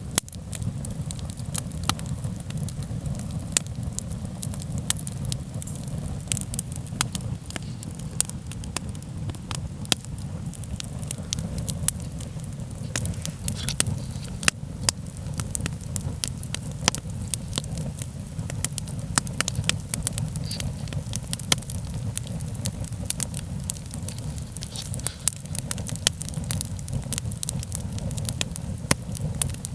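Wood campfire burning, with frequent irregular crackles and sharp pops over a low steady rumble.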